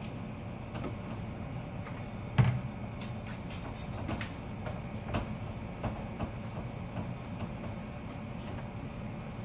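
Refrigerator running with a steady low hum, broken by several knocks and clatters of things being handled, the loudest about two and a half seconds in.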